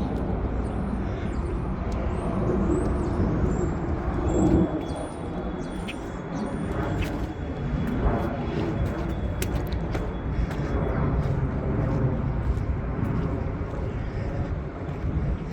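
A steady rumble of city traffic outdoors, with faint high chirps in the first few seconds.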